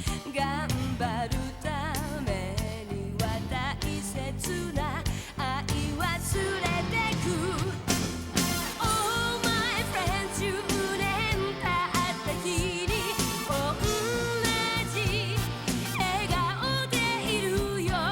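A pop song: a singing voice with vibrato over a band with a steady beat.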